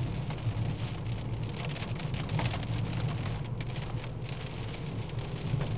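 Rain hitting a moving car, many small drop ticks over a steady hiss, with the low, steady drone of the engine and tyres underneath.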